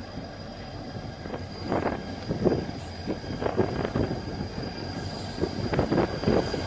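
Diesel freight train approaching and drawing close, its locomotive engine a steady low hum. From about a second and a half in there are irregular short screeches and clanks from the wheels on the rails.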